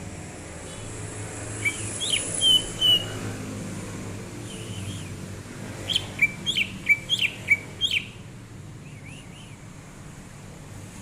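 Cucak ijo (green leafbird) singing: a short phrase of clear whistled notes about two seconds in, then a quick run of about seven sharp, downward-sweeping notes a few seconds later, with a few fainter notes in between and after.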